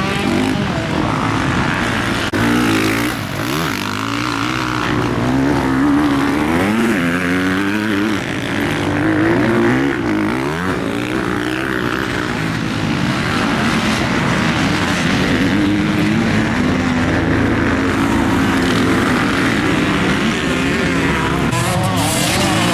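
Motocross bike engine revving up and down as it is ridden around a dirt track, its pitch rising and falling repeatedly through throttle changes.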